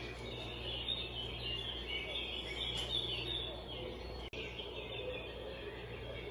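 Birds chirping and calling in many short notes over a steady low background rumble; the sound drops out for an instant about two-thirds of the way through.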